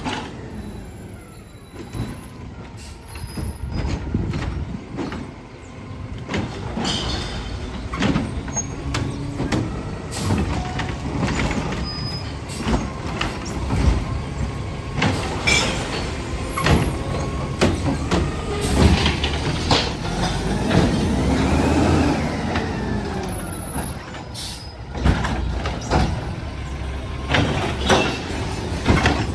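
Garbage truck collecting a line of recycling carts: the engine runs under many sharp clanks and knocks, with a hiss of air brakes and a whine that rises and falls near the end.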